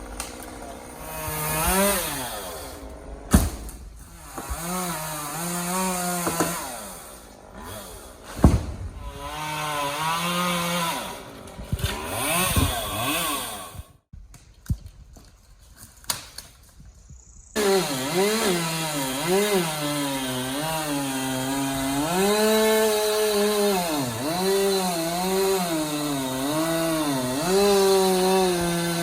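Chainsaw engine revving up and down as it cuts, with two sharp thumps in the first third. It drops away for a few seconds past the middle, then comes back abruptly and runs on under load, its pitch rising and sagging.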